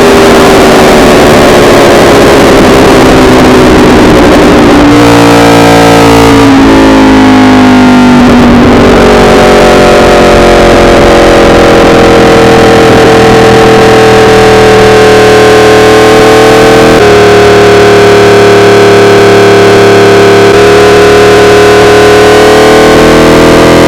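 Yamaha R1 inline-four sport bike engine running loud on the road: the pitch falls as it slows, steps through a few quick gear changes, then holds steady with gentle rises as it pulls again.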